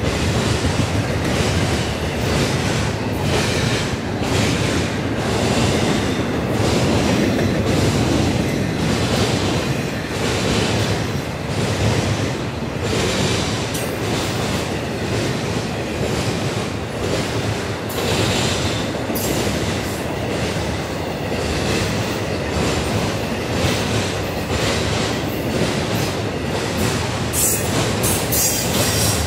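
Intermodal freight train cars rolling past close by: a steady rumble of steel wheels on rail, with clicks and clacks recurring all the way through.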